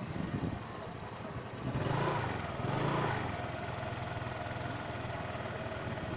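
A small vehicle engine running. It speeds up from about two seconds in, then settles to a steady pitch.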